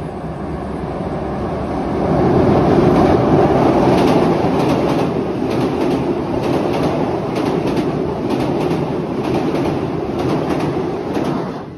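KRL commuter electric train passing close by on a steel truss bridge. The cars rumble loudly, with repeated clacks of wheels over rail joints. It builds over the first two seconds and cuts off suddenly near the end.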